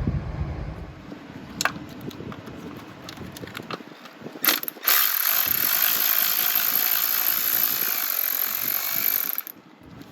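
A few scattered metallic tool clicks, then an electric ratchet running steadily for about four and a half seconds before stopping abruptly.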